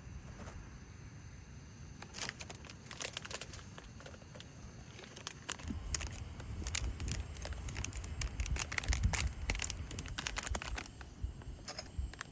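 Crinkling and rustling as something is handled: irregular sharp clicks and crackles, with a low rumble that builds through the middle and eases near the end.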